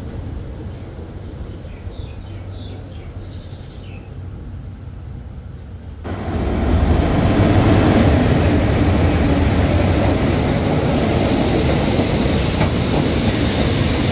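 Diesel locomotive hauling passenger coaches past close by, a loud steady rumble with wheel noise that starts abruptly about six seconds in, after a quieter stretch of low rumble from a train still in the distance.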